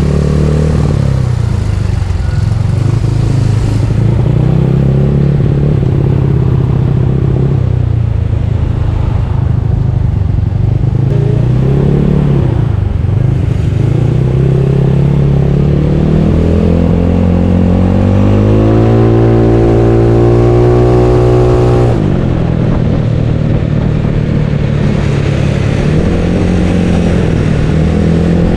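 Bored-up Yamaha Mio scooter's single-cylinder engine running while ridden, its pitch rising and falling with the throttle. About two-thirds of the way through it climbs steadily for several seconds, then drops suddenly as the throttle is closed.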